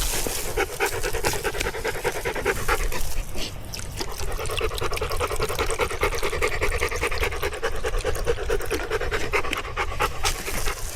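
Dog panting rapidly and continuously, close to the microphone.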